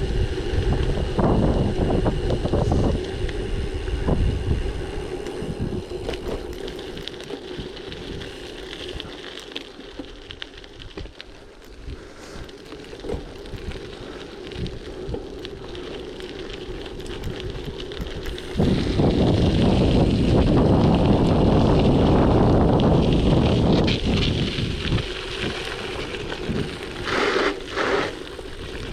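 Gravel bike riding: tyre and bike noise over a gravel track, with wind buffeting the microphone. It is rougher and louder at first and quieter through the middle. Just past halfway it turns suddenly loud for several seconds, with a few short gusts near the end.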